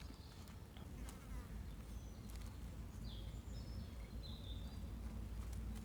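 A buzzing insect, like a fly or bee, over a steady low rumble. A few short high chirps and scattered light clicks come in between.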